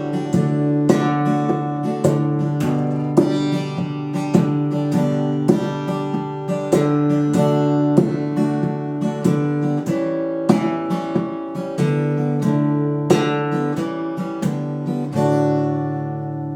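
Solo acoustic guitar strumming chords at a steady pulse, closing on a final chord left ringing and fading near the end: the instrumental close of a song.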